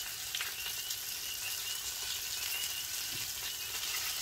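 Chicken wings sizzling steadily in a pan on a gas grill while they are turned over with tongs. The wings are starting to char.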